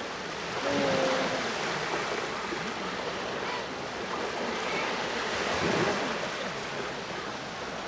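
Sea waves washing onto the shore, a steady surf noise that swells about a second in and again near the end.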